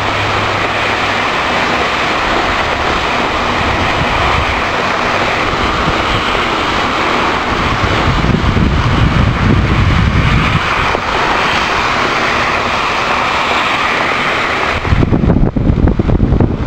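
Strong thunderstorm wind rushing steadily. About fifteen seconds in it turns to rough gusts buffeting the microphone.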